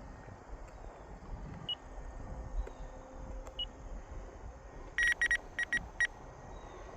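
Radio-control transmitter beeping five short times about five seconds in, an alert as the flight timer runs down to its last minute. Wind rumbles on the microphone throughout.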